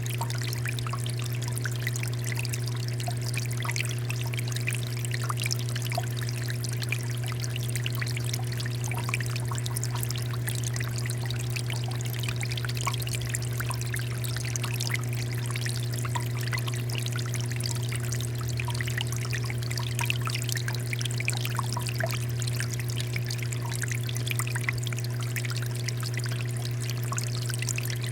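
Water fountain flowing steadily, with falling water pouring and trickling and small splashes throughout, over a steady low hum.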